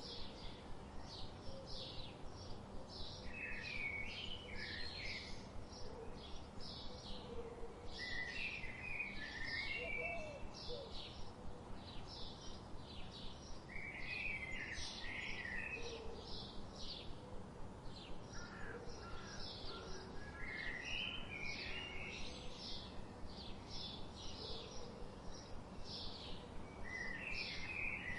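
Birds singing: a steady run of short, high repeated chirps, several a second, with a longer burst of chirping phrases every few seconds, over a faint steady background hiss.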